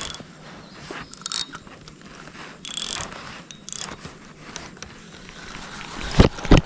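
Fishing reel being cranked as a chatterbait is retrieved, a mechanical ratcheting and gear sound. Near the end come two loud sharp knocks.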